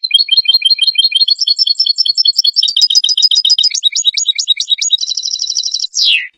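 European goldfinch song: a rapid run of high twittering notes, about eight a second, breaking into a faster trill near the end and closing on a single falling note.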